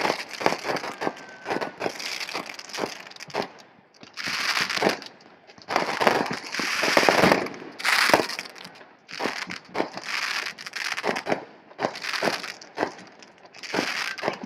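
Fireworks going off: a rapid, irregular string of pops and bangs. Denser crackling bursts swell up a few seconds in and again around the middle.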